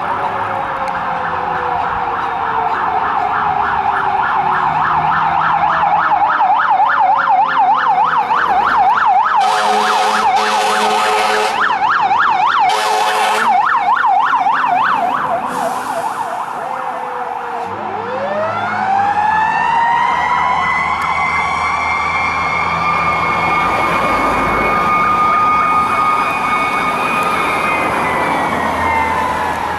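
Fire trucks responding under sirens: an electronic siren warbling rapidly, cut through by three blasts of an air horn about a third of the way in. Past the middle a Federal Q2B mechanical siren winds up in a rising howl, holds a high steady wail, and starts to wind down near the end.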